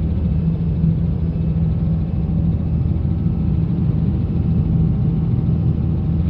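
Helicopter engine and rotor noise, a steady low drone.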